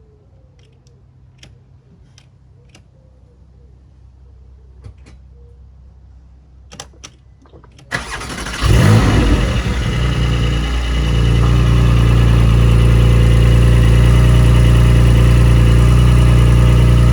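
Porsche 718 GT4's 4.0-litre flat-six started about eight seconds in: a brief crank, then it catches with a rev flare and settles into a steady idle. Before it, a few faint clicks.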